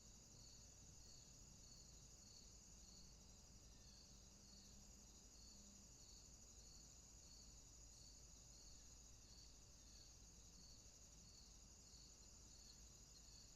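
Faint night insect chorus: a steady high trill, with a softer chirp repeating a little under twice a second.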